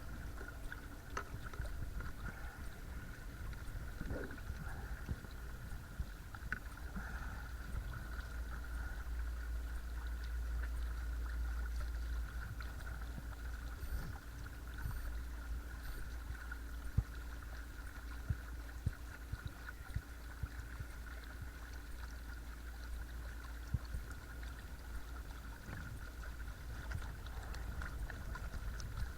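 Watersnake T24 12-volt electric trolling motor running steadily, a constant whine, with water washing past the kayak hull.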